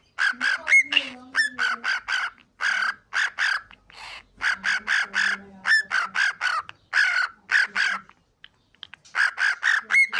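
Cockatiel giving a rapid run of short, harsh calls, about three or four a second, mixed with a few brief whistled notes, with a pause of about a second near the end.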